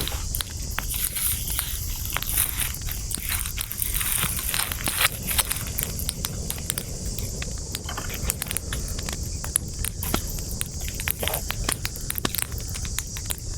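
Wood campfire crackling: many irregular sharp crackles over a steady high hiss and a low rumble.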